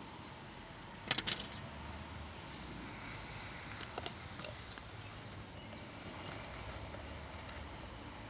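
Light clicks and rattles of small metal parts and tools being handled while the muffler cover of an Echo SRM 230 string trimmer is worked loose. A sharp pair of clicks comes about a second in, and a run of small clicks comes near the end.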